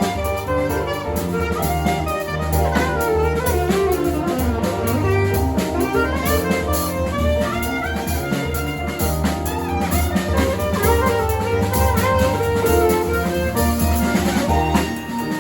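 Small jazz group playing: alto saxophone melody lines over piano, keyboard and drum kit.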